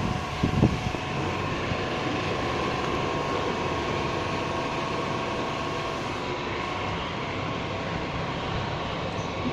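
Ford Figo TDCi diesel engine running steadily, with a couple of short knocks about half a second in.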